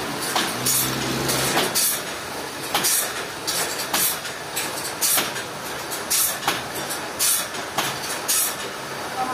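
Sawmill machinery running, with short sharp clacks repeating irregularly about once or twice a second. A motor hum dies away about a second and a half in.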